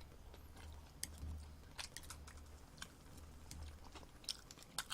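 Faint close-up chewing of a mouthful of egg, soft wet mouth clicks over a low steady hum.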